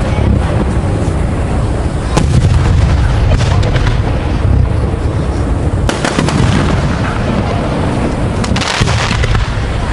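Aerial fireworks bursting in quick succession: a continuous rumble of deep booms, with sharp cracks standing out at about two, six and nine seconds in.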